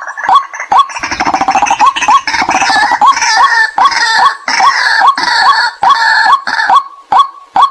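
White-breasted waterhen calling: a loud kwak note repeated about twice a second, with a dense, harsh chattering chorus over it from about a second in until near the end. The calls are a recorded lure call for waterhens.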